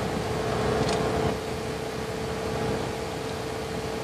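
Vehicle engine and road noise heard from inside the cabin: a steady drone with a constant hum, the engine pulling under load on a steep uphill climb.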